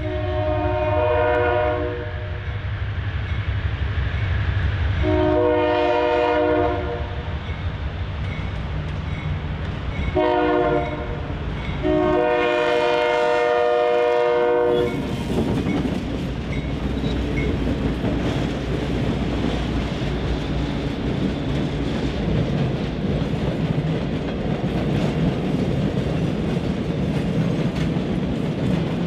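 Two GE C30-7 diesel locomotives hauling an empty iron ore train sound their air horn in the grade-crossing pattern of long, long, short, long over a low engine rumble. From about fifteen seconds in the horn stops and the steady rumble and clickety-clack of the empty ore hopper cars rolling over the crossing take over.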